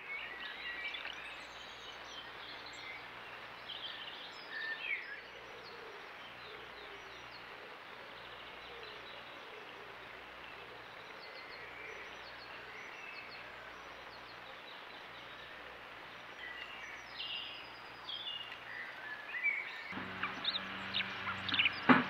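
Garden birds chirping and singing in short scattered phrases over a steady background hiss from the trail camera's microphone. Near the end the sound grows louder, with a few sharp knocks.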